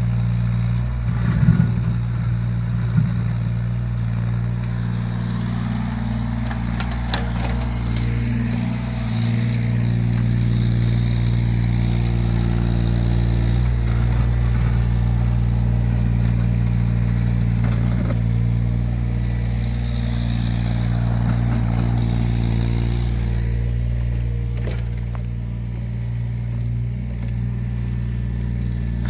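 Yanmar ViO17 mini excavator's three-cylinder diesel engine running steadily, working the hydraulics. A couple of sharp knocks come in the first few seconds, with scraping now and then.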